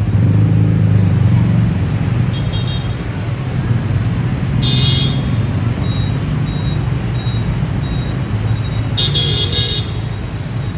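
Street traffic running, with a steady engine rumble that is loudest at the start, and two short vehicle horn toots, about five seconds in and again near the end.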